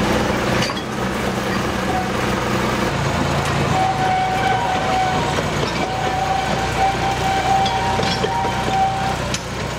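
Narrow-gauge train hauled by a Hunslet diesel locomotive on the move, with a steady engine drone and rail noise. From about four seconds in, a long steady high tone with one short break sounds over it.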